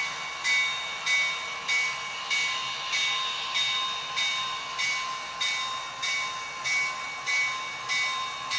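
Model train running on a layout, with a steady chuff-like pulse about three times every two seconds, like a steam locomotive working at slow speed.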